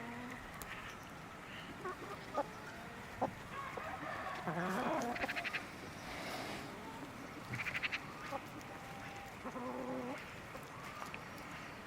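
Chickens clucking and calling in short bursts, with quick trilled calls twice and a couple of sharp knocks early on.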